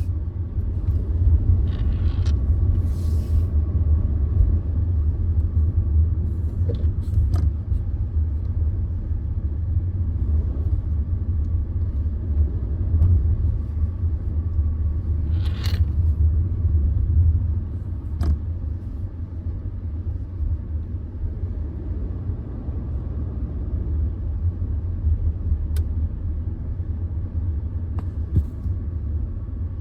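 Car engine running with a steady low rumble while the pedals are worked, easing slightly a little past halfway. A few short clicks and taps sound over it.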